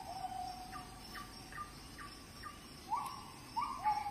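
A bird calling over and over: a run of short, quick falling notes, then louder rising calls in the last second or so.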